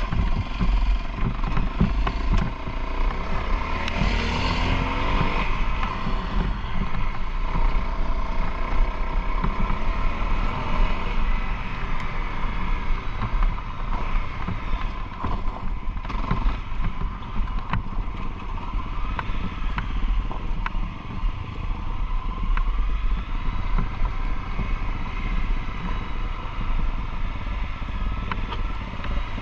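Enduro (off-road) motorcycle engine running as it is ridden, the revs rising and falling, with one clear rise in revs about four seconds in.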